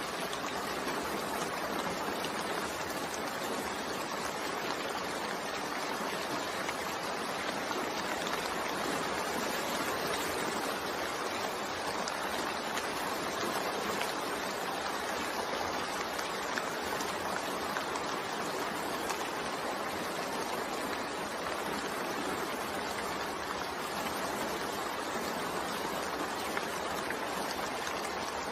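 Steady, continuous rainfall, an even hiss of rain with no distinct drops or events standing out.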